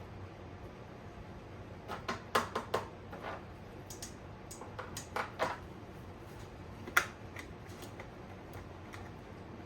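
Irregular light clicks and taps of parts and tools being handled while working on an ATV's electrics, with a quick cluster about two seconds in and the sharpest single click about seven seconds in.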